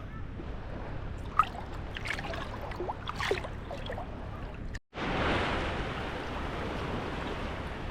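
Sea water lapping and trickling at the shoreline, with scattered short sounds over it. After a sudden break about five seconds in, a fuller, steadier surf wash follows, with wind on the microphone.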